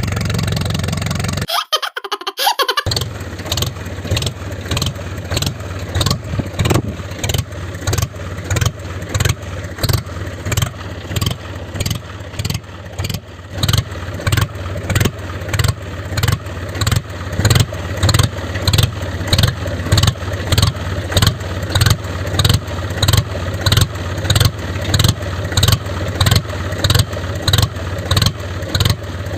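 Tractor engine running steadily under load, a low drone with a regular chugging beat about twice a second, briefly cut off about two seconds in.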